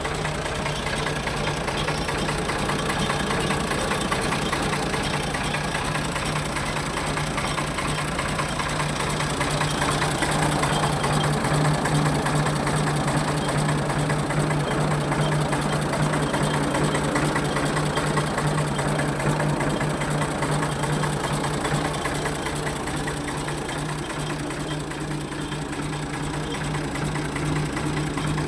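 Ford 4610 tractor's three-cylinder engine running steadily at idle, its level swelling slightly around the middle and easing off again.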